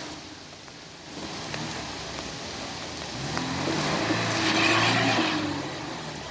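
Car engine running up under load with a rushing noise, swelling to its loudest about four to five seconds in and then easing off.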